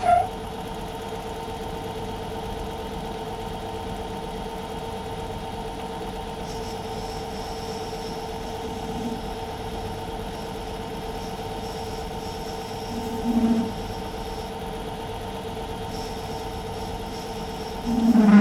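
Myford metal lathe running steadily with an even motor hum.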